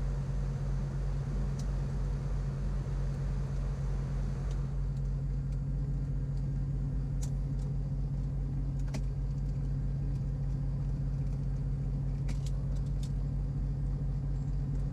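Steady drone of the Piper Navajo Panther's twin engines running on the ground after landing, heard in the cockpit. About four and a half seconds in, the hiss over the drone drops away, and a few sharp clicks come in the second half.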